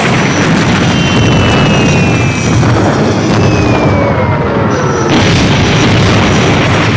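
Continuous heavy explosions from an aerial bombing raid, rumbling without a break, with several thin whistles slowly falling in pitch over them.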